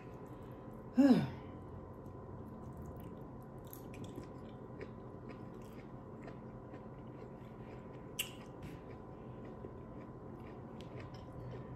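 A person chewing a mouthful of food close to the microphone, with scattered soft clicks, and a brief vocal sound about a second in.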